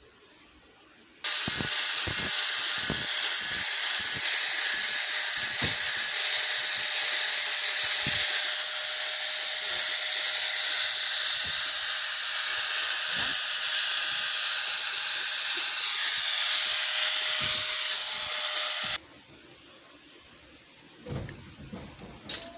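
A power tool running steadily, with a high-pitched whine over a hiss; it starts abruptly about a second in and cuts off abruptly near the end.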